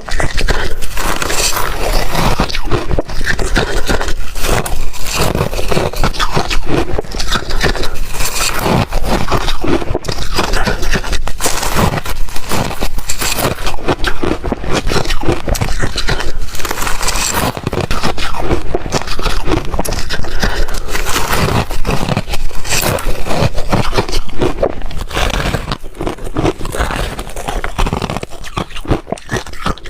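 A person crunching and chewing ice close to the microphone: loud, dense, irregular crunches throughout, easing off somewhat in the last few seconds.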